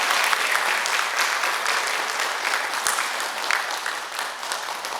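Audience applauding in a hall, many hands clapping, slowly dying down.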